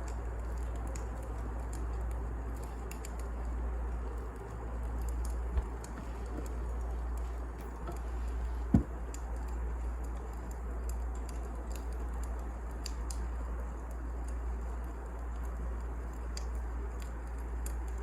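Wood fire crackling: a steady low rumble of burning logs with scattered small crackles and two sharper pops, the louder one about nine seconds in.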